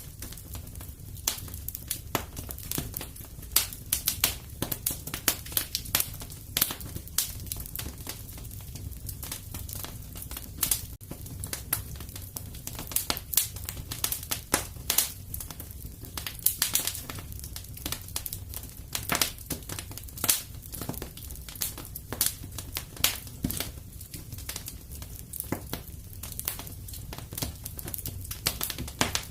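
Fireplace fire crackling, with frequent irregular pops and snaps over a low steady rumble.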